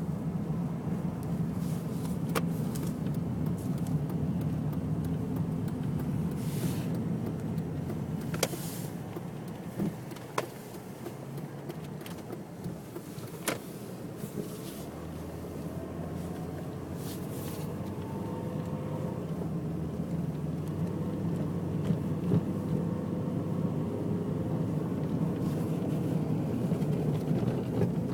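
Mazda Millenia running, with a steady low hum and a few sharp knocks at uneven intervals. The knock has not gone away.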